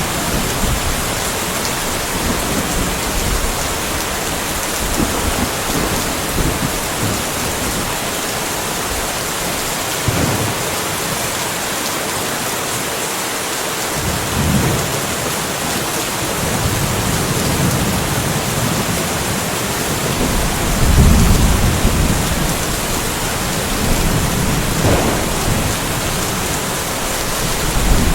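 Steady rain falling in a light thunderstorm, with low rolls of thunder rumbling in several times in the second half. The loudest roll comes about two-thirds of the way through.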